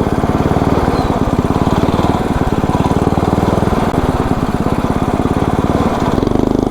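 10 hp Tecumseh single-cylinder flathead engine running hard under load, driving the ride-on mower in third gear, with rapid steady firing pulses; its pitch shifts near the end.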